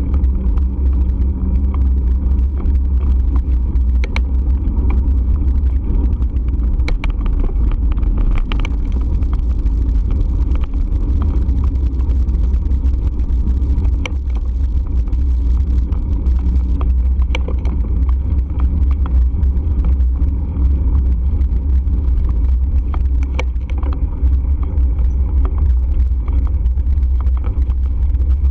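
Steady, loud, low rumble of riding noise on a moving bike, with scattered sharp clicks and knocks now and then.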